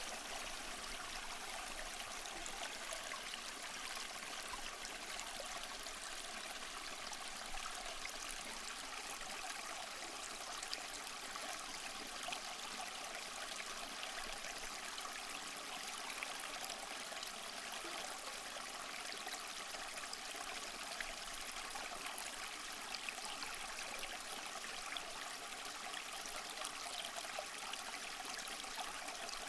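Small waterfall splashing and trickling over mossy rocks: a steady, even rush of falling water with fine splashes.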